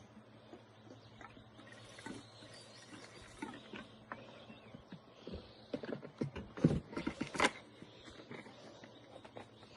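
Scattered clicks, taps and knocks of a motocross bike being handled and checked over, with a quick run of louder knocks between about six and seven and a half seconds in.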